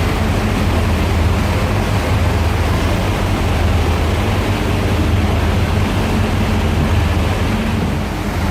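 Dubai Ferry's engines running at cruising speed: a steady low hum under a constant rush of water and wind.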